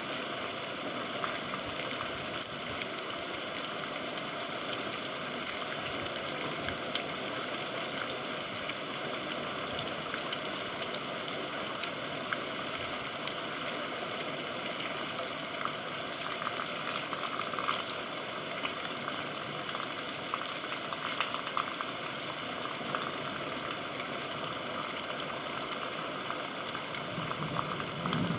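Steady rain falling: a dense, even hiss of water with many small drop ticks. A brief low sound comes in near the end.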